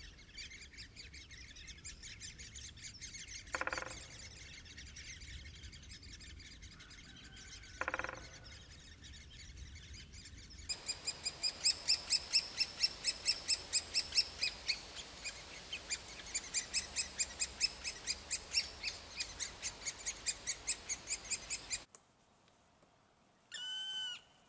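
Great spotted woodpecker calls: a couple of single short calls, then from about ten seconds in a loud, fast run of high, sharp calls about four a second, which cuts off suddenly. Near the end a brief ringing tone sounds once.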